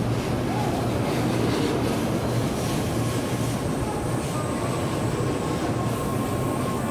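Shinkansen bullet train running at speed, heard from inside the passenger car: a steady rumble of wheels and running gear on the track.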